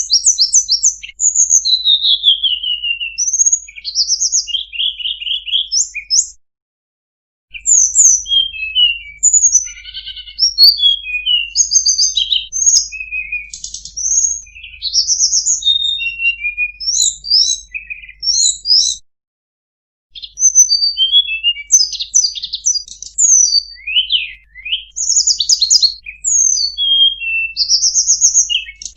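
Tledekan gunung songbird singing a fast, varied song of high chirps, short trills and quick rising and falling whistles, broken by two short silences, about a third of the way in and about two thirds of the way in.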